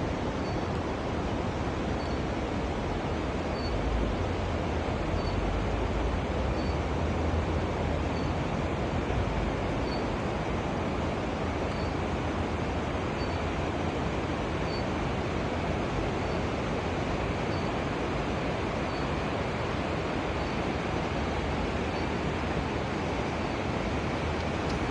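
Steady rushing noise, with a faint short high chirp repeating every second or so.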